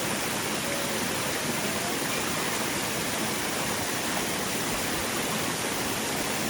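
A mountain stream rushing steadily over rocks, a constant even wash of water.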